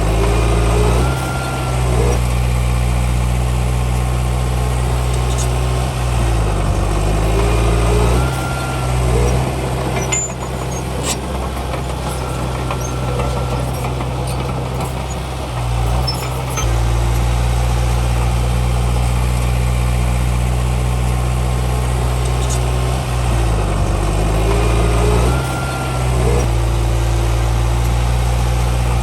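Heavy diesel engine of earthmoving machinery running with a steady low drone. Its pitch rises and falls briefly a few times, near the start, around the middle of the first third, and again near the end. It runs a little quieter for several seconds in the middle.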